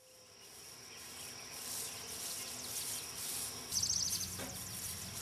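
Outdoor insect ambience fading in: a steady high-pitched insect drone with a pulsing hiss, broken a little under four seconds in by a short run of rapid high chirps, over a faint low rumble.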